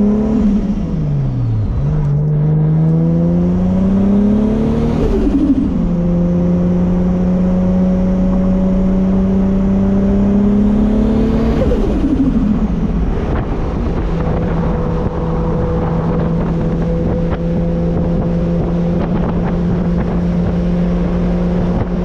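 Turbocharged 2JZ inline-six of an MK4 Toyota Supra under hard acceleration: the revs dip, climb through a gear, fall sharply at an upshift about five seconds in, and climb again through the next gear. About twelve seconds in the driver lifts and the engine settles into a steady, even cruise.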